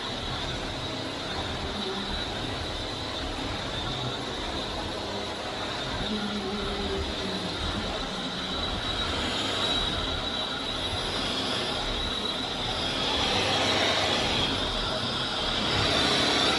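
Vax Air Steerable Max upright vacuum cleaner running, a steady motor noise with a high whine, growing a little louder from about thirteen seconds in.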